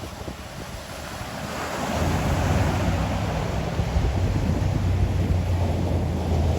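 Ocean surf: a wave builds and breaks about two seconds in, and its wash runs on as a steady rushing hiss. Wind buffets the microphone with a low rumble.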